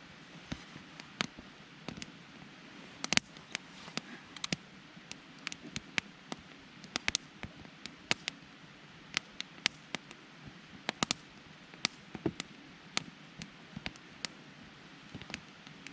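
Campfire of burning wood crackling, with irregular sharp pops over a low steady hiss; the loudest pop comes about three seconds in.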